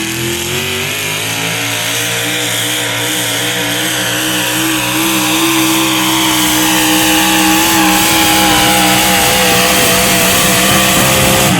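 Pulling vehicle's engine running hard at high revs under full load as it drags the weight sled down the track. The pitch climbs slightly about half a second in, then holds with a slight waver.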